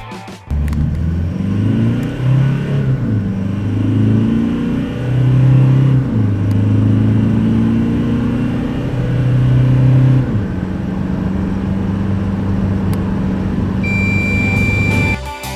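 Toyota Hilux's 2.4-litre D-4D four-cylinder turbodiesel accelerating hard from a standstill, revs climbing and dropping back through several automatic gearchanges, then settling to a steady drone at speed. Near the end a steady high beep sounds for about a second.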